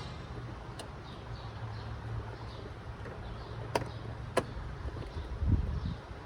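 Electric starter cranking a 26 hp Briggs & Stratton V-twin garden-tractor engine without it catching, with two sharp clicks partway through. A heavier thump about five and a half seconds in, then the cranking stops.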